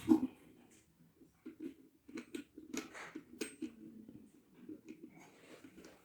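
Irregular clicks and knocks of electric kettle parts being handled and fitted back together, the loudest right at the start.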